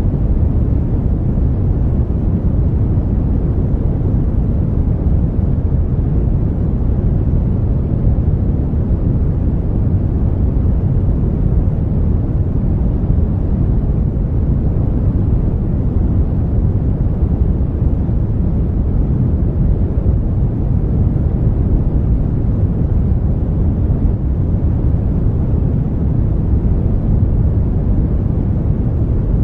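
Brown noise: a steady, deep rushing hiss with most of its energy in the low end and little treble, unchanging throughout.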